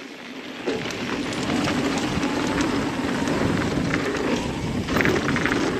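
Mountain bike rolling fast down a dirt trail: tyre noise over dirt and gravel with wind rush on the helmet microphone and small rattling clicks, growing louder over the first second as the bike picks up speed, then holding steady.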